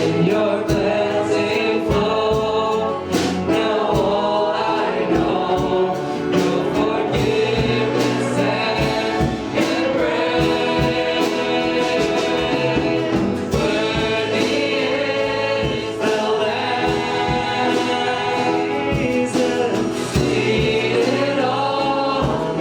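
Congregational worship music: a group singing a gospel hymn with band accompaniment and a steady beat.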